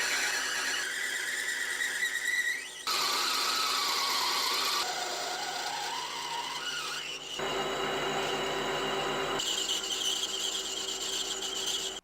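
A rotary power tool working a metal part, running with a high squeal whose pitch wanders up and down as the pressure changes. It comes in several short stretches, each cut off suddenly.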